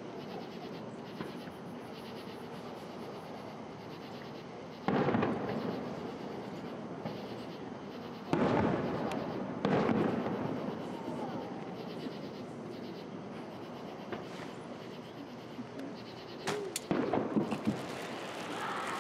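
Fireworks display: three loud shell bursts, each followed by a fading rumble, with a quick run of sharp crackles near the end.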